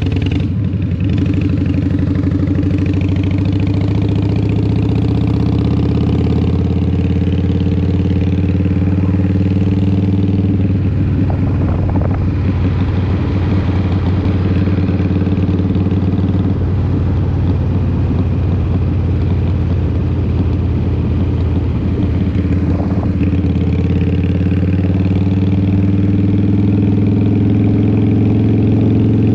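Harley-Davidson Fat Boy's Twin Cam 88 V-twin running through Vance & Hines exhaust while riding, a steady, deep engine note. It turns rougher through the middle and rises slightly in pitch near the end as the throttle opens.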